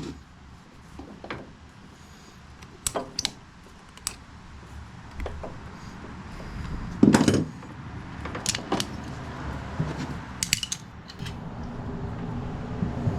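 Hand tools and small metal parts clinking and knocking in scattered, irregular clicks, with one louder knock about seven seconds in.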